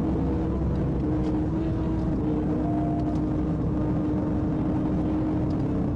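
Patrol car driving at highway speed during a pursuit: a steady engine and road drone with a low hum that shifts slightly in pitch.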